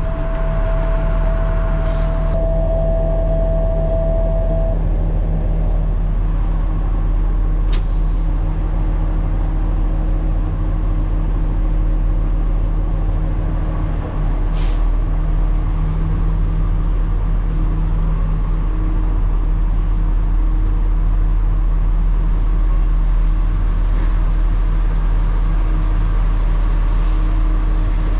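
Heavy truck engine running steadily, with a steady high tone sounding over it for the first few seconds.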